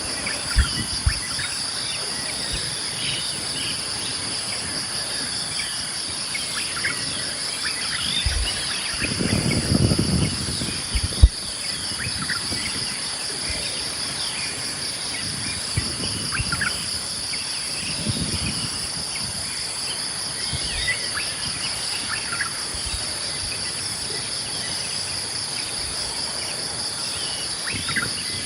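Steady chorus of insects, a high, finely pulsing trill that never stops, with scattered short bird chirps over it. A brief low rumble about a third of the way in, and a few sharp knocks, the loudest right after the rumble.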